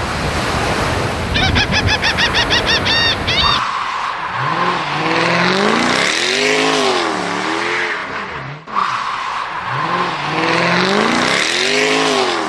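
Car sound effects: noisy engine and tyre sounds with squealing glides, and a quick string of about ten short chirps in the first few seconds. The squealing passage plays twice, broken by a brief gap, then cuts off sharply.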